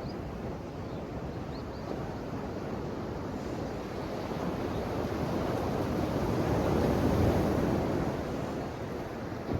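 Ocean waves washing onto the shore: a steady rush of surf that swells to its loudest about seven seconds in, then eases off.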